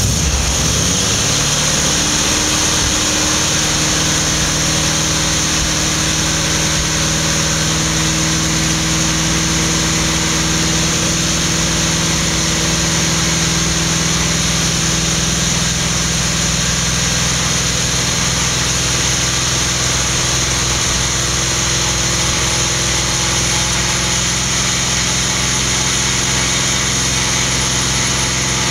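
Holden 308 V8 with a 286 cam, running at a steady speed on a homemade engine dyno. The pitch settles in the first few seconds and then holds, with no revving.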